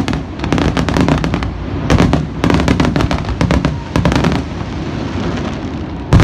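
Fireworks display: a rapid barrage of bangs and crackles that thins out a little over halfway through into a low rumble, then one loud bang near the end.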